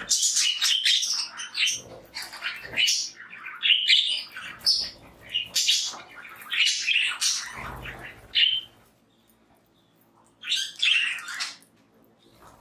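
Several budgerigars chirping and chattering in a busy run of short, bending calls, falling quiet for about a second and a half before one more burst of chatter.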